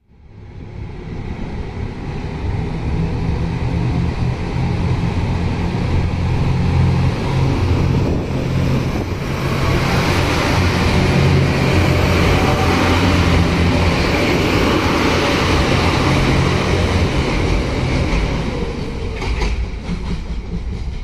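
JR Shikoku 2700 series diesel multiple unit passing close by, its diesel engines running with a steady low drone under rushing wheel-on-rail noise that swells as the cars go past. A few sharp clicks come near the end.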